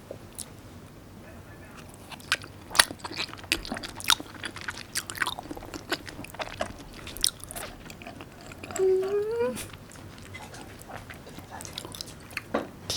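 Close-miked chewing of raw salmon: wet mouth clicks and smacks, irregular and scattered, then a short rising 'mm' hum about nine seconds in.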